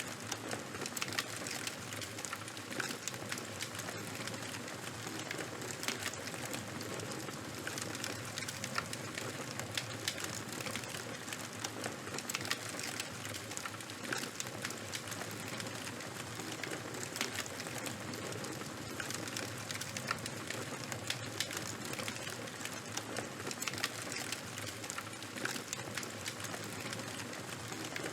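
Charcoal and wood fire burning, crackling steadily with many small irregular pops over a soft hiss.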